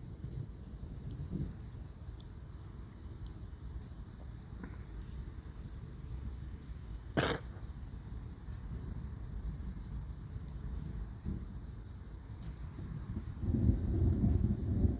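Crickets chirping in a steady high trill. A single sharp click comes a little past the middle, and a low rumble builds in the last couple of seconds.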